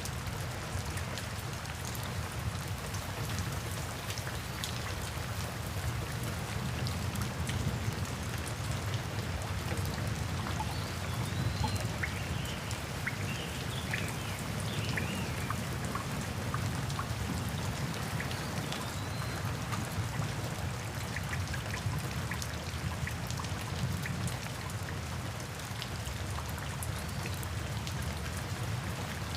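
Steady rain falling, with the patter of individual drops over a low continuous rumble. A few short, faint chirps come through around the middle.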